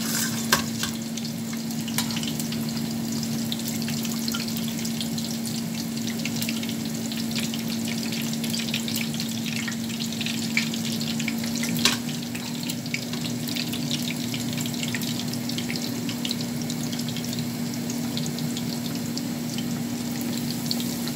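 Breaded beef escalopes (bifteck) frying in hot oil in a small stainless steel pan: a steady sizzle and crackle over a low hum. Metal tongs knock sharply against the pan twice, just after the start and again about halfway through.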